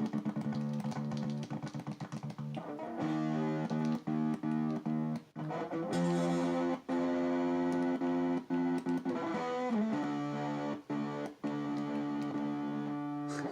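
Electric guitar playing held notes and chords whose sound is repeatedly switched off and on by a kill switch: a fast stutter of cut-outs in the first couple of seconds, then longer sustained notes broken by occasional sudden gaps.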